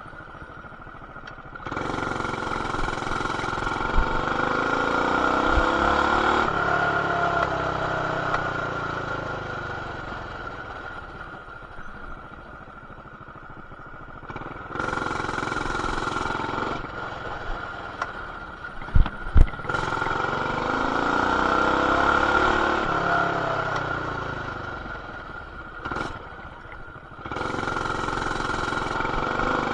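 BT200X mini bike's small single-cylinder engine with a stage 1 intake, header and RLV exhaust, pulling up in rising pitch three times and then dropping back as the throttle is eased. It is heard through an action camera's plastic case, which dulls it, and there are a couple of sharp knocks about two-thirds of the way through.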